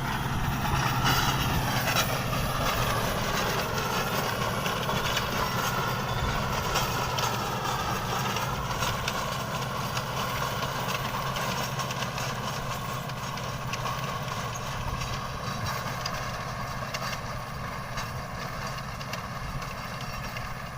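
A heavy vehicle's engine running steadily with a low hum, joined during the first half by a higher whine that wavers up and down in pitch.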